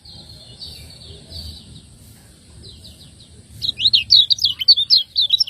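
Kecial kuning white-eye chirping: soft rapid twittering at first, then, about three and a half seconds in, a loud run of quick, sharp down-slurred chirps.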